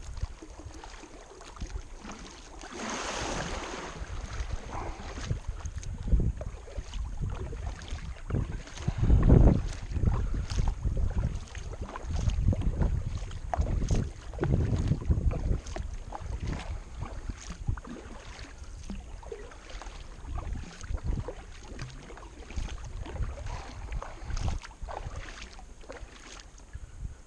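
Kayak paddle strokes dipping and splashing in the river, with water dripping off the blade and wind buffeting the microphone.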